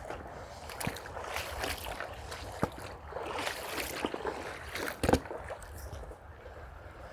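Footsteps crunching and rustling along a creek-side path, with irregular scuffs and a sharp snap about five seconds in.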